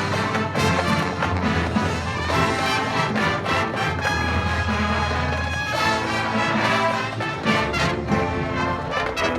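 High school marching band playing, with brass sustaining chords over a held low bass note and drum strokes.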